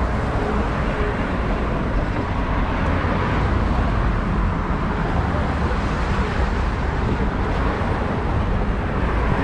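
Steady low rumble of street traffic and outdoor noise, with no distinct events.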